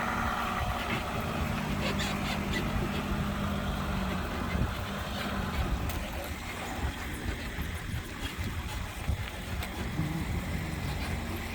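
Engine running steadily while the ski boat is hauled out of the water, with a few light knocks about two seconds in.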